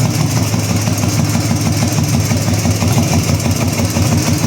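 Ural motorcycle's flat-twin engine idling steadily, its idle left a little high rather than turned down.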